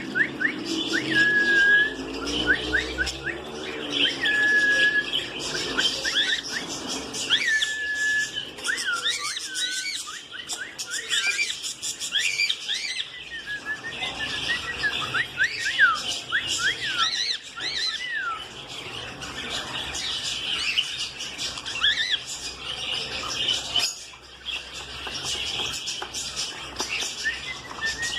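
Budgerigars chirping and warbling: a continuous run of short rising and falling chirps, with a few held whistled notes in the first eight seconds.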